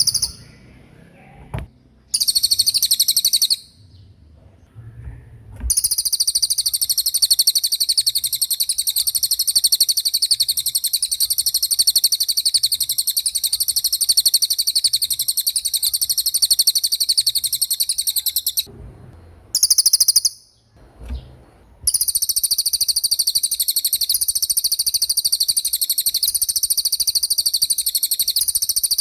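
A small songbird's rapid, high-pitched rolling trill, given in bouts: a short burst, a second one of about a second and a half, a long run of about twelve seconds, another short burst, then a long run again.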